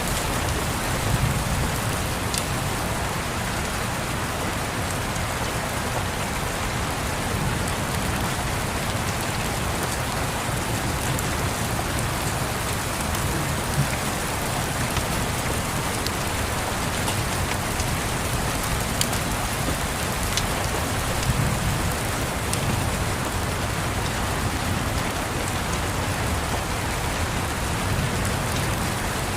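Steady rain pattering on a surface, with scattered sharp crackles of a wood fire and a few soft, low rumbles of distant thunder.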